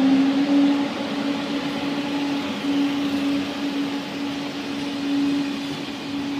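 TGV high-speed train's passenger cars rolling past on the track: a steady rush of wheels on rail with a steady low hum running through it.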